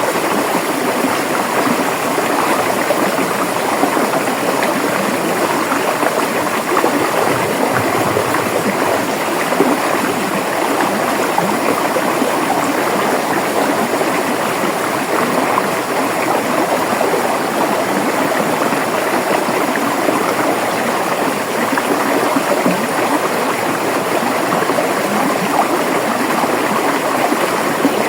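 River water flowing over rocks, a steady rushing with fine bubbling and gurgling.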